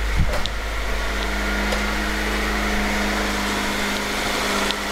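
Honda CR-V's B20 four-cylinder engine idling steadily, at a slightly raised idle because it is cold just after start-up.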